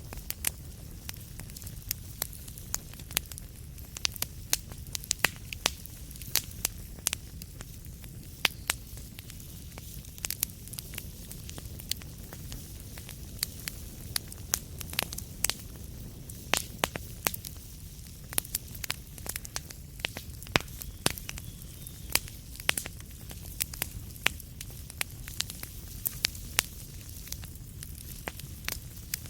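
Wood fire crackling in a fireplace: many sharp, irregular pops and snaps, several a second, over a steady low rumble of flames.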